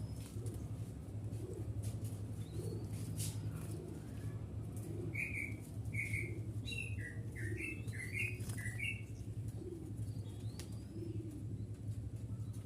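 A group of birds scrambling for food: doves cooing softly and fluttering their wings, with a run of short chirps in the middle and a few rising whistles. A steady low hum runs underneath.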